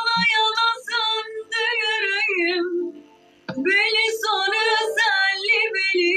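A female voice singing, an ornamented melodic line with wavering pitch, in two phrases separated by a short breath pause about three seconds in.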